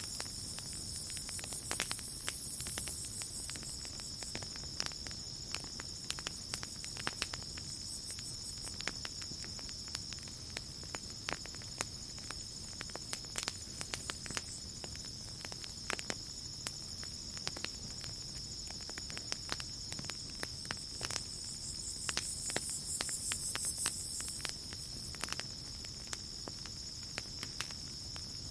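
Campfire crackling, with scattered sharp pops and snaps, over a steady chirping chorus of crickets. A higher, pulsing insect trill swells at the start and again about three quarters of the way through.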